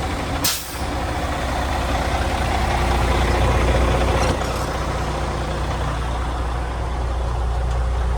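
Kenworth W900 semi truck idling with a steady low engine drone. About half a second in comes one short, sharp burst of hiss.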